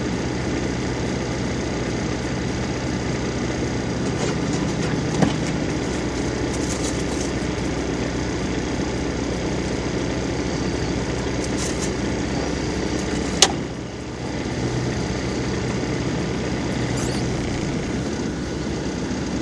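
Off-road vehicle engine running steadily at an even pitch, with a sharp knock about five seconds in and a louder, sharper knock about thirteen seconds in.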